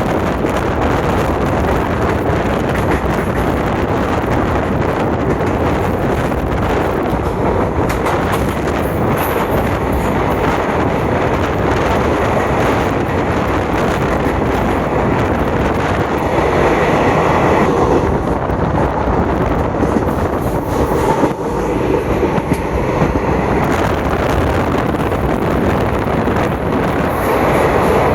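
Passenger train in motion, heard from on board: a loud, steady rumble of wheels on the track, with a short dip about twenty-one seconds in.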